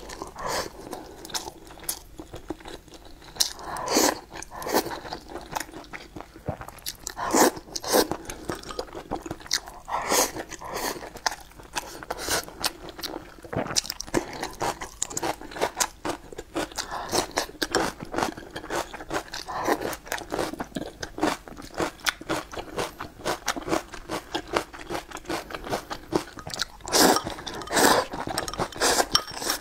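Close-miked eating: a person taking bites of rice and stir-fried vegetables and chewing, with a steady run of irregular crunches and wet mouth sounds and a few louder bites along the way.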